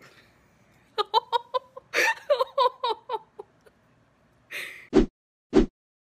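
A person laughing in a quick run of short bursts, then a breath and three short sharp thumps near the end.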